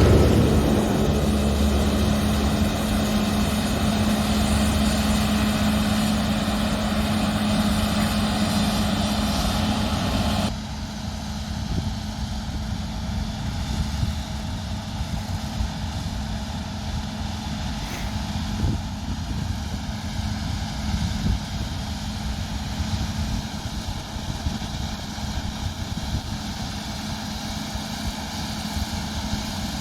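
Combine harvester running steadily under harvest, an even engine hum with one steady tone. About a third of the way in it drops suddenly to a quieter, steadier running, as if heard from farther off.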